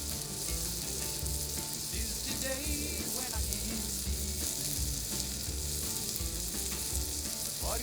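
Chicken sizzling and frying in oil on a thick iron griddle plate over a Swedish torch log fire, a steady hiss.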